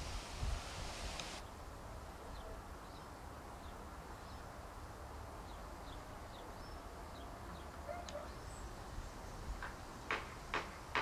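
Small birds chirping faintly, short high notes scattered here and there. Near the end a regular series of sharp notes starts, about two to three a second.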